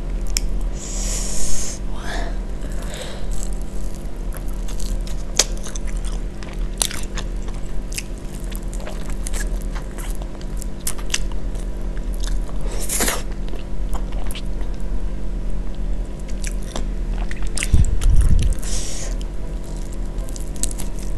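Close-miked eating of a sauced fried chicken wing: biting and chewing, with many sharp, crisp clicks and wet mouth sounds. A dull low thump comes about eighteen seconds in.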